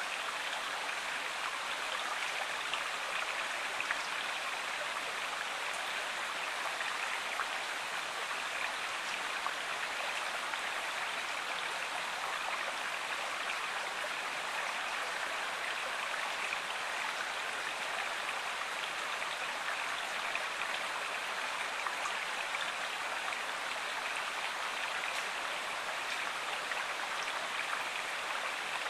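Stream water running steadily, an even rush with a few faint splashes.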